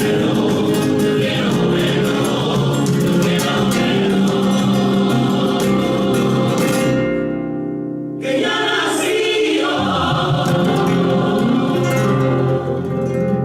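Background music: a Christmas carol sung by a choir with guitar accompaniment.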